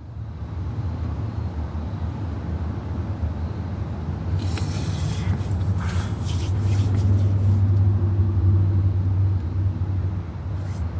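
Low, steady motor-vehicle rumble that swells about halfway through and eases near the end, with some brief rustling a few seconds in.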